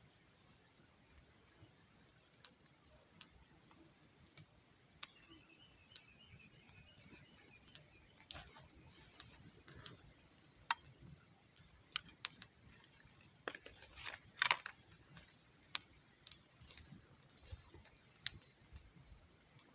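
Wood campfire crackling: irregular sharp pops and snaps, thicker and louder in the second half.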